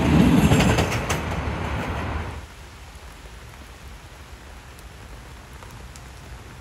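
A train passing close by, running with a loud rumble and scattered rail clicks, cutting off suddenly about two seconds in, followed by a quieter steady hiss.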